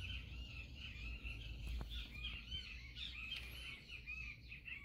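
Small birds chirping in the background, a dense run of short, quick high notes, over a low steady rumble.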